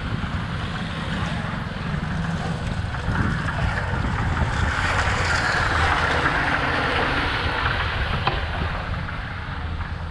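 Wind rushing over an action camera's microphone while cycling, with a steady low rumble underneath. The hiss swells louder in the middle, then eases off.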